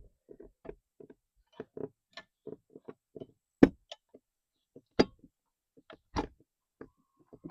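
Irregular light clicks and knocks of metal parts and hand tools being handled while fitting the water pump on a 15 hp Chrysler outboard motor. Three sharper knocks stand out, at about three and a half, five and six seconds in.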